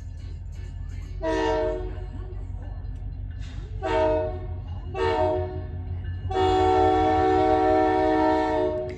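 Canadian Pacific diesel locomotive's multi-chime air horn sounding four blasts, three shorter ones and then a long final blast of about two and a half seconds, over a steady low rumble from the approaching train. The blasts form the pattern of a grade-crossing warning.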